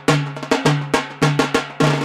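Yemeni bara' drums playing the Harithi rhythm: a quick, driving pattern of sharp strikes, each leaving a ringing low drum tone, with strong beats and lighter strokes between.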